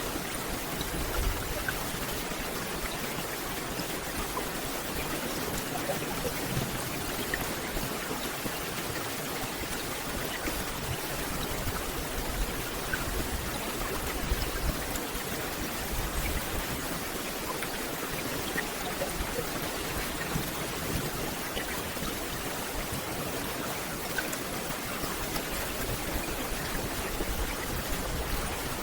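Steady rain falling on forest foliage: an even hiss of rain with scattered small drop ticks.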